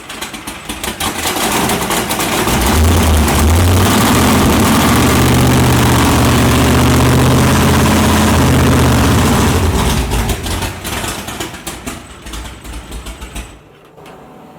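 Big-block Ford V8 of a 1969 Mustang drag car, running on a donor carburettor. About two seconds in it is brought up to steady, higher revs and held there, then it drops back to an uneven, choppy idle and shuts off near the end.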